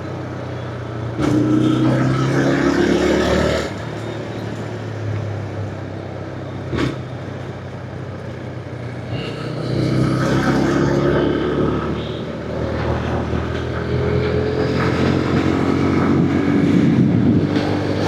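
Motorcycle engine running on the move, its pitch rising slowly several times as it accelerates and then dropping back, with steady wind and road noise.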